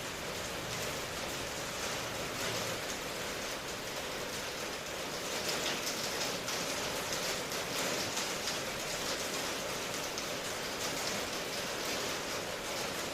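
Steady rain: an even hiss of many small drop ticks, a little heavier from about five seconds in.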